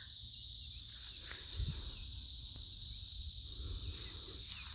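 Steady high-pitched insect chorus running without a break, with a low rumble underneath.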